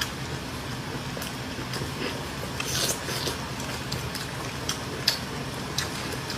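Close-up eating sounds: chewing hotpot food such as beef tripe, with scattered sharp clicks and a brief noisy burst about three seconds in, over a steady low hum.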